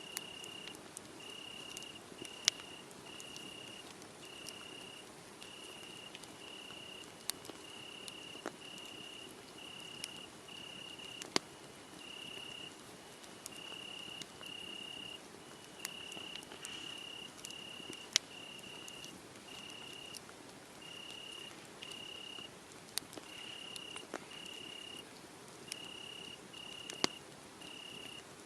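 A cricket chirping steadily: short chirps at one high, unchanging pitch, repeated more than once a second. Over it, a wood fire crackling, with sharp irregular pops that are the loudest sounds.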